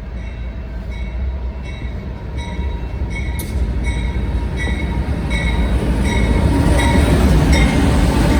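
Train coming along the main line, its low rumble growing louder. A short high ringing note repeats about twice a second over it.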